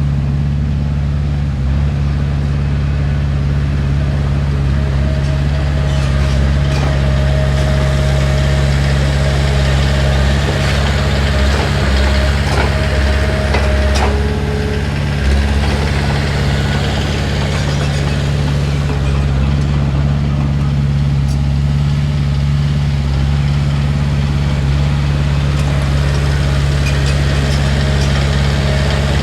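Heavy diesel engine of earthmoving equipment running steadily, with a faint high whine held for several seconds in the middle.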